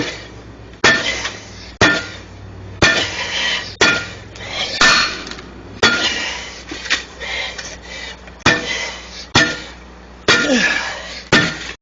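Metal striking metal about once a second, each sharp blow followed by a short clatter of ringing steel: a tire iron or tool being hammered against a steel truck wheel rim to force a stiff tire bead off by hand.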